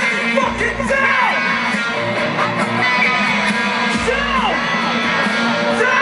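Loud live electronic rock with electric guitar, deep bass swells and yelled vocals, with a recurring melody that arcs up and back down in pitch.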